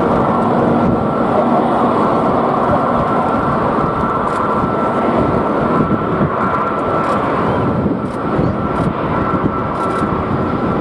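Jet airliner engines running, a loud steady rush of noise with a thin, steady whine held above it.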